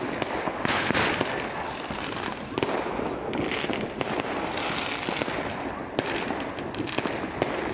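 Fireworks going off in a dense, continuous barrage of bangs and crackles, with a louder cluster of bangs about a second in.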